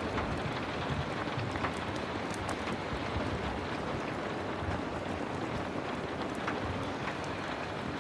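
Heavy rain falling steadily, with scattered small sharp crackles and ticks throughout.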